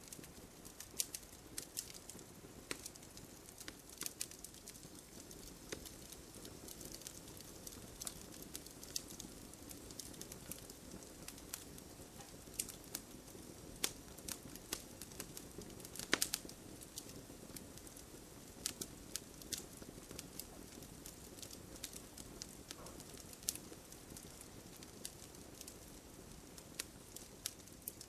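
Wood fire crackling and popping: a low steady hiss with irregular sharp pops scattered throughout, the loudest about two-thirds of the way through.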